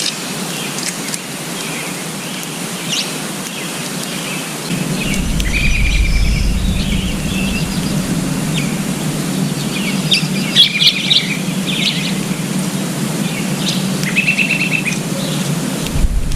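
Small birds chirping and trilling in short calls over a steady outdoor hiss, with a low rumble setting in about five seconds in.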